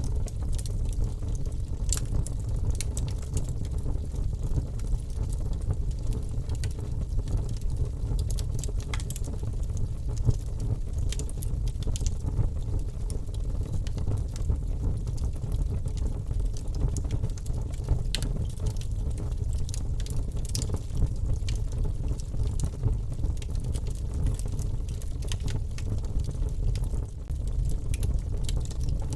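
Wood fire burning in a fireplace: a steady low roar of flames with frequent sharp crackles and pops scattered throughout.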